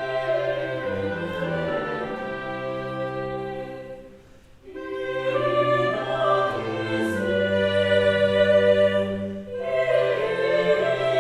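Ensemble performing early Russian music: voices singing long held notes over sustained low tones, with a short break between phrases about four seconds in.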